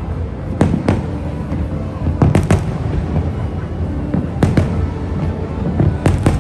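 Aerial fireworks bursting: a series of sharp booms, several coming in quick clusters of two or three, over a continuous low rumble.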